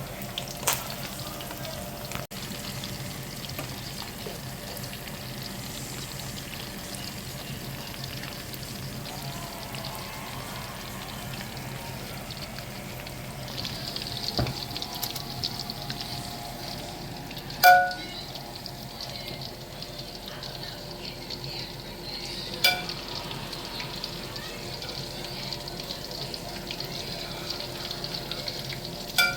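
Sausage frying in hot oil: a steady sizzle that grows louder about halfway through, with three sharp metallic clinks.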